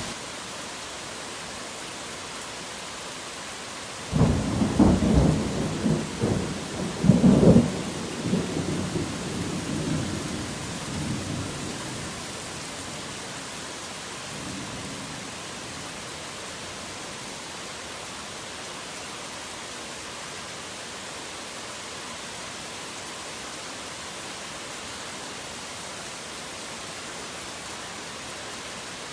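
Steady heavy rain with a thunderclap about four seconds in, rumbling on in several loud peaks and dying away over the next several seconds, then a faint distant rumble a little later.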